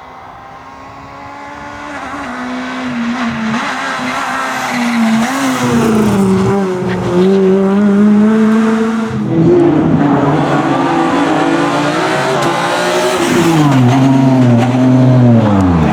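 Rally car engine coming closer at speed, growing louder and revving hard, with a sharp gear change about nine seconds in. Near the end the pitch falls away steeply.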